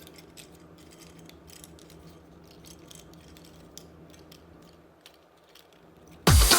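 Faint, scattered clicks and rattles of small plastic toy parts being handled, with loud music starting again near the end.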